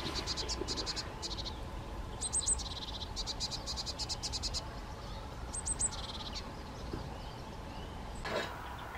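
European greenfinch singing: rapid trills of repeated high notes, some phrases opening with a few higher slurred notes. Three bursts come about a second apart, and the last ends about six seconds in.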